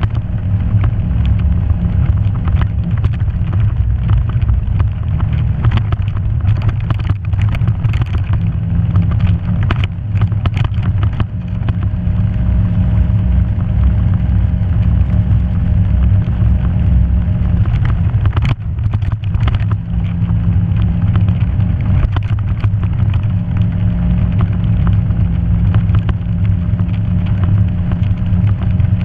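Off-road vehicle engine running steadily while driving along a rough dirt trail, with scattered knocks and rattles from the bumpy ground; one sharp knock about two-thirds of the way through.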